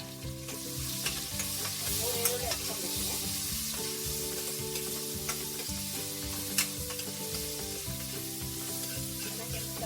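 Food sizzling in hot oil in a pan while being stirred, with scattered sharp clicks and scrapes of the spoon against the pan.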